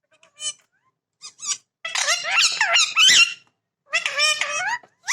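Parrot chattering in high-pitched, speech-like bursts with gliding pitch. There are four bursts, and the longest, in the middle, lasts about a second and a half.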